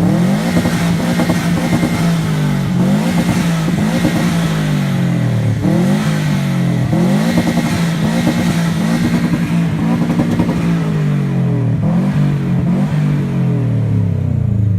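Subaru car engine revved hard at a standstill in repeated blips, its pitch rising and falling about once every second or two.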